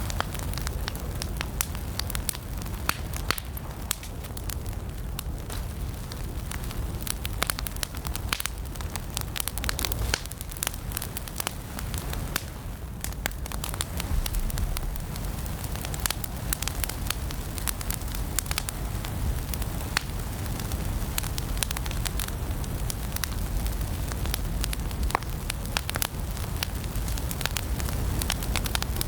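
Wood fire burning in a fireplace: steady crackling with frequent sharp pops over a low, even rumble of the flames.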